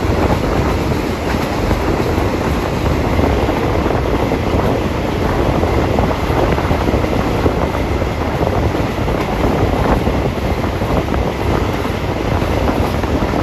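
Thai passenger train running steadily along the track, heard from an open carriage window: a continuous loud rumble of the carriages' wheels on the rails.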